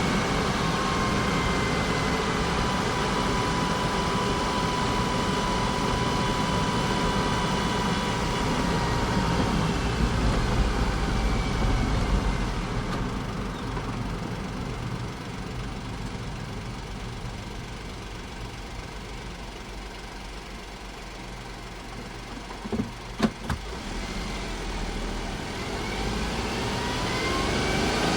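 Honda S660's small turbocharged three-cylinder engine running, easing off and growing quieter through the middle. A couple of sharp knocks come a little past two-thirds of the way in, and the engine picks up again near the end, its pitch rising.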